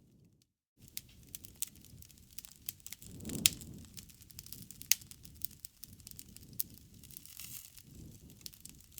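Wood fire crackling and popping: irregular sharp snaps over a low, steady rumble of flame, with the loudest pops about three and a half and five seconds in. The sound cuts out briefly just after the start.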